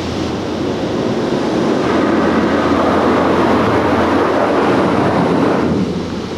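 Automatic car wash machinery working over the car, heard from inside the cabin as a loud, steady rumbling wash of noise. It grows louder about two seconds in and eases off near the end.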